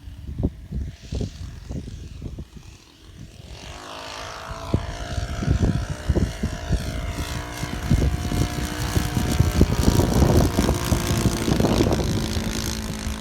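Wind buffeting the microphone in low thumps, then the propeller and four-stroke petrol engine of a radio-controlled model Spitfire (OS GF40) flying overhead, its pitch gliding as it passes and growing louder from about four seconds in to its loudest near the end.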